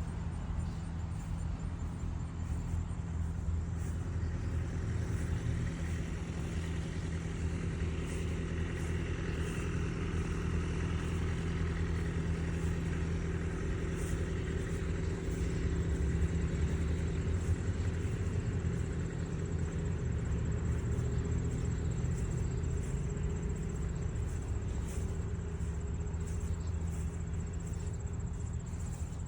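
Steady low mechanical rumble, like a running engine or motor traffic, with a thin high steady tone joining it in the second half.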